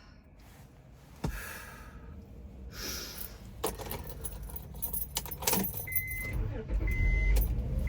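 Keys jangling with clicks and handling noises, then two short high electronic beeps about a second apart near the end.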